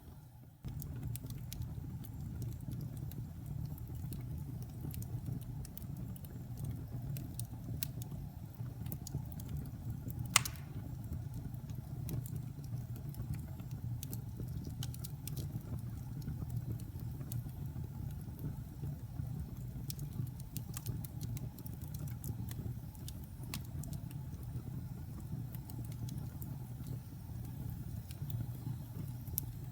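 Wood fire burning in a fireplace: a steady low rumble of flame with scattered light crackles and one sharp pop about ten seconds in.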